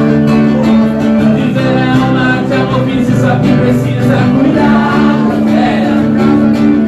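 Live music: an acoustic guitar playing with a singer's voice.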